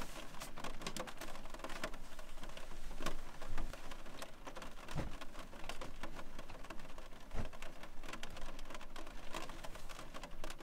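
Rain pattering on the roof of a camper van, heard from inside: a steady hiss of drops broken by many irregular sharper taps.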